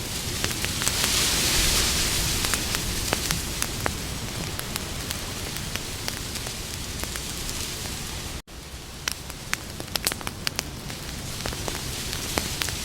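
Campfire burning, with irregular sharp crackles and pops over a steady hiss. About eight and a half seconds in, the sound drops out for an instant, then the crackling resumes.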